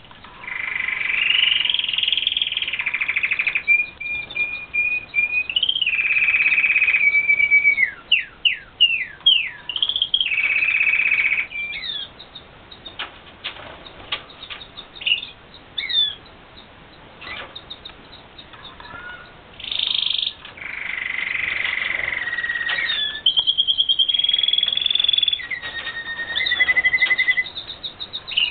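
Red factor canaries singing, with long rolling trills and runs of repeated notes, and a quick series of falling notes about eight seconds in. Partway through the song drops to faint calls and clicks for several seconds, then starts again with more trills.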